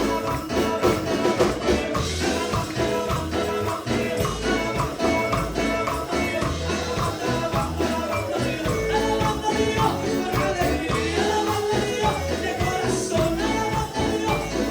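Pentecostal worship chorus music: singing over tambourine and a steady bass beat, playing without a break.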